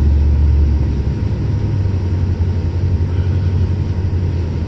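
Steady low drone of a four-wheel-drive vehicle driving, engine and mud tyres heard from inside the cab. The drone rises slightly in pitch about two seconds in.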